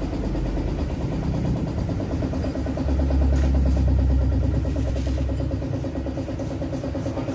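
Toyota Innova Reborn 2GD four-cylinder turbodiesel running with an even, rapid diesel clatter; a deeper rumble swells for a couple of seconds in the middle.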